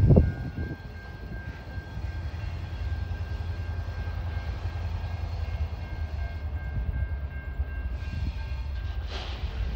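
TasRail diesel locomotives hauling a container freight train, a steady low rumble of engines and rolling wagons, with a thin steady high tone above it. A brief loud knock right at the start, and a short hissy swell about nine seconds in.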